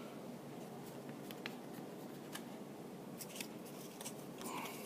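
Faint, scattered light clicks and rustles of small items being handled on a tabletop.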